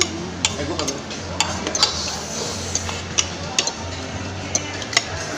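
Spoons and forks clicking and scraping against plates as several people eat noodles, a scatter of sharp clicks over the steady background noise of a busy restaurant.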